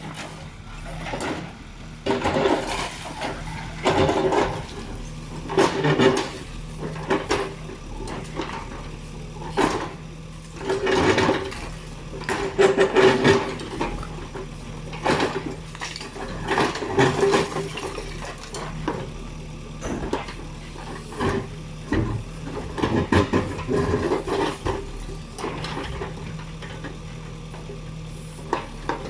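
JCB machine's diesel engine running steadily, with irregular louder bursts of clattering noise every second or two.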